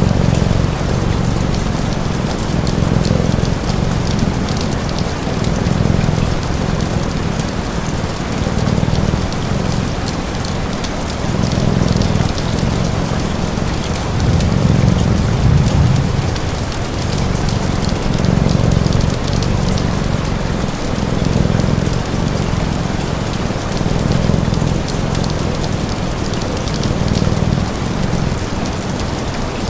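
Steady rain, layered with the crackle of a fire and a cat's purr that swells and fades in low pulses about every three seconds.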